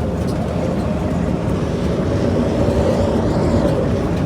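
The 5.9-litre Cummins diesel, taken from a New Holland combine, in a 1976 Dodge W600 Power Wagon tow truck, running steadily as the truck pulls away in gear, heard from the cab; the level rises slightly toward the middle.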